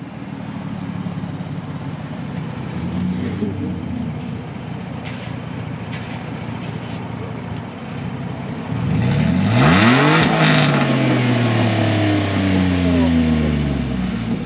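Turbocharged V6 truck engine idling just after starting, then revved once about nine seconds in. The pitch climbs quickly, with a brief crackle at the top, then falls slowly back toward idle.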